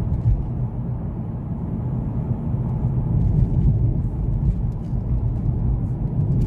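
Steady low rumble of a car on the move, engine and tyre noise as heard from inside the cabin.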